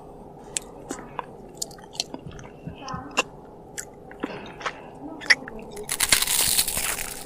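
A person eating close to the microphone: wet chewing with lip smacks and scattered mouth clicks, then a louder crackling crunch or rustle for about a second near the end.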